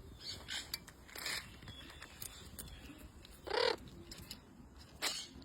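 Green macaw giving a series of short, harsh squawks, the loudest about three and a half seconds in.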